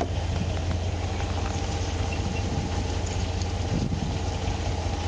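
A motor vehicle's engine idling: a steady low rumble.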